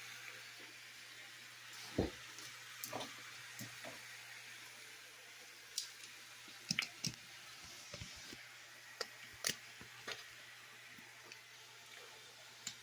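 Irregular clicks and knocks of a utensil against a cooking pot, with wet squishing, as the eru is stirred, over a faint steady hiss; the loudest knock comes about two seconds in.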